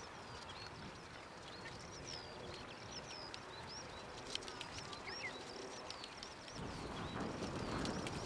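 Small birds chirping over and over in short, high, hooked notes. A low rushing noise rises near the end.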